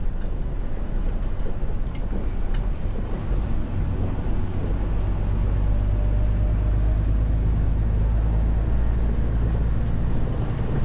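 Detroit DD15 diesel engine of a 2021 Western Star 4900 semi truck running under way, heard from inside the cab. The low rumble grows stronger about halfway through.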